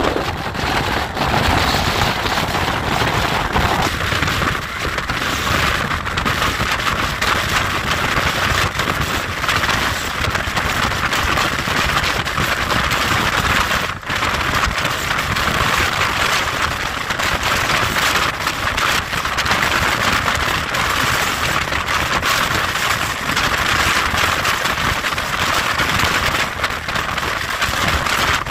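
Moving express passenger train heard from an open coach window at speed: a loud, steady rush of wind and wheel-on-rail noise. The lower rumble thins out about four seconds in.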